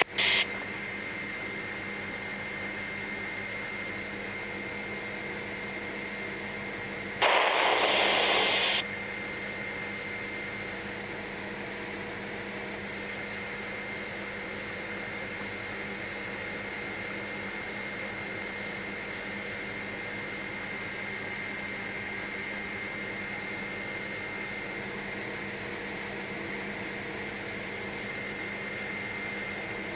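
Helicopter engine and rotor hum heard inside the cabin through the headset intercom, steady with a few constant tones. About seven seconds in, a burst of hiss lasts about a second and a half and stands out above the hum.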